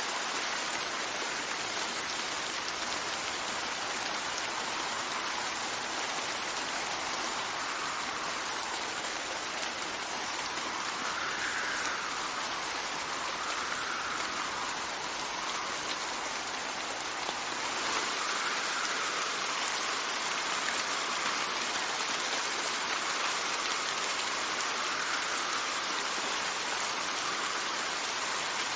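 Steady rain falling with wind, a dense even hiss. Part of the hiss rises and falls in pitch every couple of seconds.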